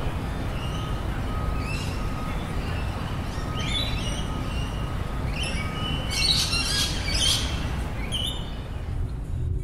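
Birds chirping in quick runs of short, high calls that are busiest in the second half, over a steady low rumble.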